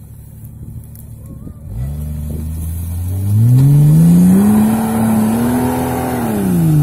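Off-road SUV engine revving: the revs pick up about two seconds in, climb and stay high for a few seconds, then drop back near the end.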